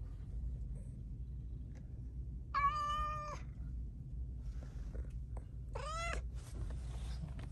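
Cat meowing twice: a held meow of nearly a second about midway, then a shorter meow that rises and falls, over a low steady rumble.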